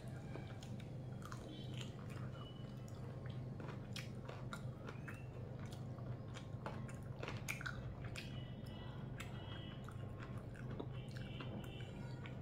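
Close-up eating sounds: chewing, with scattered wet clicks and smacks as cooked chicken is picked apart by hand and eaten, over a steady low hum.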